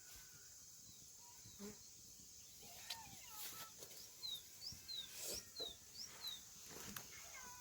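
Faint bird calls: a run of about six short, high, falling chirps midway, over a steady high hiss and a few small clicks.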